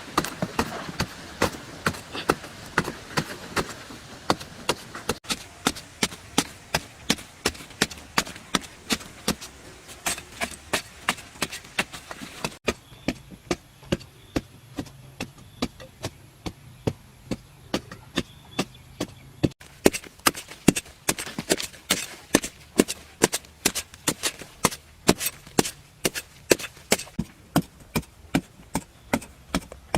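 A hand tool chopping repeatedly at a steady pace, about two to three sharp blows a second. The background changes abruptly twice.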